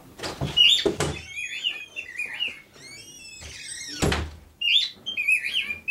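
Cockatiels chirping and whistling in short rising and falling calls, broken by three heavy knocks: two in the first second and one about four seconds in.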